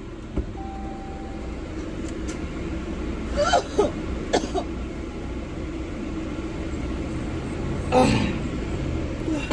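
A person coughing or gagging in short bursts, a few times, over the steady rumble of a car interior.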